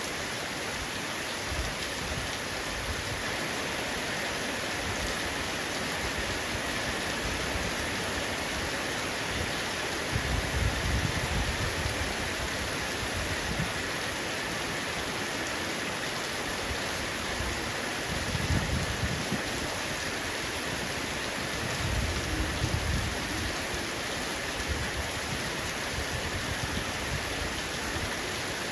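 Heavy rain falling steadily on a roof, with three short low rumbles of thunder.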